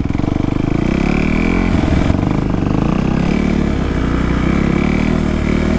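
Dirt bike engine running, the revs building over the first second and then holding steady.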